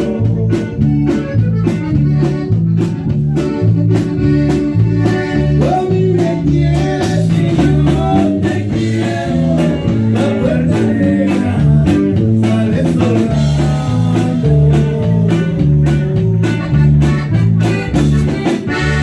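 Norteño band music with guitar and a bouncing, alternating bass line over a steady beat.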